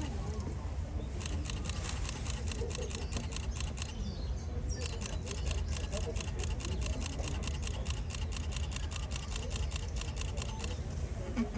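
Camera shutters firing in rapid continuous bursts, a fast run of clicks that pauses briefly about a second in and again around four seconds in, over a faint murmur of voices.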